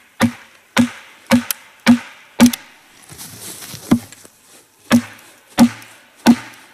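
Repeated hard blows driving wooden wedges into the crack of a log to split it. About one knock every half second, then a short pause and four slower, more spaced blows.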